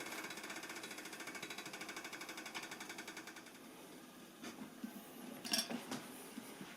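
A pot of water at the boil on a gas camping stove, rattling fast and evenly at about ten beats a second, fading out over a few seconds. Then come a few light knocks of cookware being handled.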